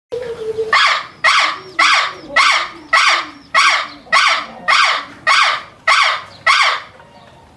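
An animal calling loudly and repeatedly: about eleven harsh calls in an even rhythm, a little under two a second.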